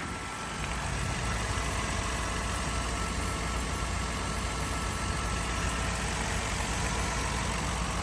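A 2020 Ford Transit's 3.5-litre EcoBoost V6 idling, with a steady, even hum that does not change.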